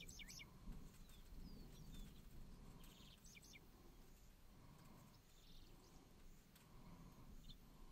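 Faint birdsong: short chirps and trills every second or two, over a low, steady rumble.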